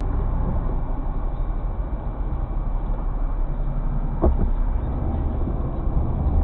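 Steady road and engine rumble inside a moving vehicle, with a brief knock about four seconds in.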